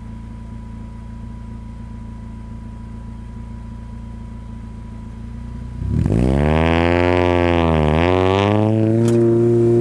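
Integra GSR's 1.8-litre DOHC VTEC four-cylinder, with Type R cams and a Type R exhaust, droning low and steady, then opening up suddenly about six seconds in. The revs climb hard, drop once at a gear change, climb again, and then settle into a steady loud drone.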